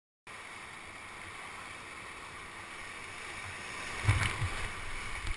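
Steady rush of whitewater in a river rapid, with a sharp thump about four seconds in.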